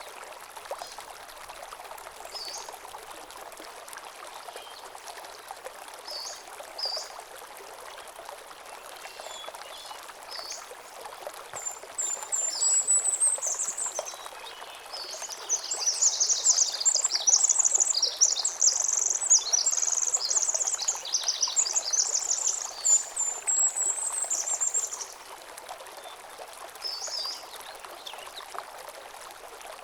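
Small stream running steadily over stones, with birds chirping now and then. About twelve seconds in, a songbird starts a long run of rapid high notes that lasts roughly thirteen seconds and is the loudest sound.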